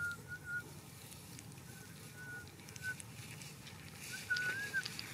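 A bird giving short, thin whistled chirps every second or so, one longer rising-and-falling note about four seconds in, over a steady low outdoor rumble, with a little rustling of grass near the end.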